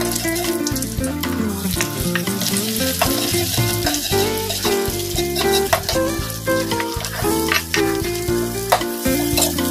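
Garlic, shallots and chilies sizzling in hot oil in a wok, stirred with a metal spatula that scrapes and clicks against the pan. Background music plays underneath.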